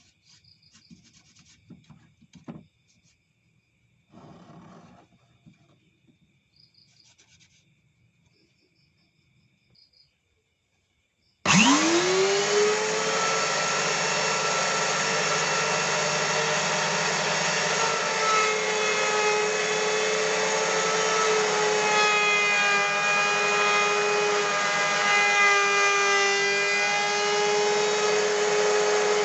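Faint clicks and light handling noises, then about eleven seconds in an electric wood router switches on. Its motor whines up to speed within a second, then runs steadily as it cuts wood, its pitch wavering under load.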